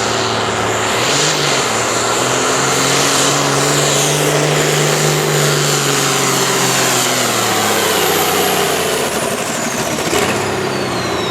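Pulling truck's engine running at high revs under load as it drags the sled. The pitch climbs through the first half, then drops away, with a high whine sliding down near the end.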